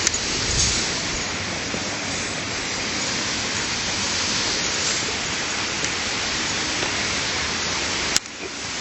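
Steady rush of flowing stream water. A sharp click near the end, followed by a brief dip in level.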